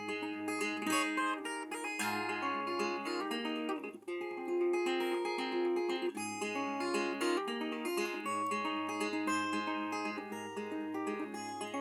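Acoustic guitar playing an instrumental passage of a folk song, with plucked and strummed notes and a brief pause about four seconds in.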